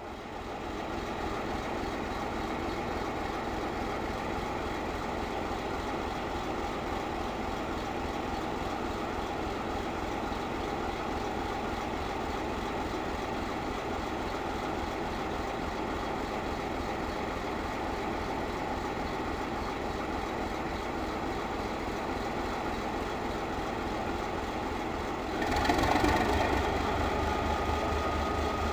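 Diesel engine of a class 751 locomotive running steadily with an even low beat. About 25 seconds in it grows louder, and a thin steady tone joins it near the end.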